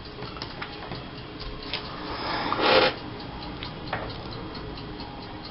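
Paper and sticker sheets rustling as they are handled and sorted, with a brief louder swell of rustling around two and a half seconds in, over faint, regular ticking.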